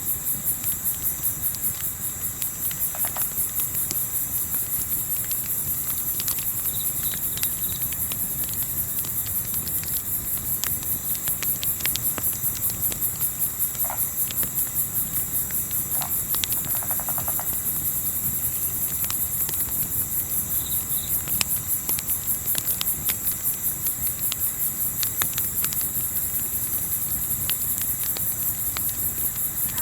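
Crickets chirping in a steady, fast-pulsing chorus, with scattered sharp crackles and pops from a campfire and a low background rumble.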